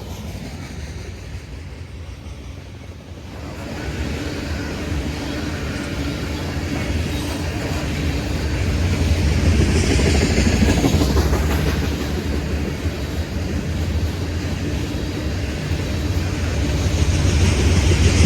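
A train rolling past close by: a steady rumble of wheels on rail that grows louder about four seconds in and peaks near the middle.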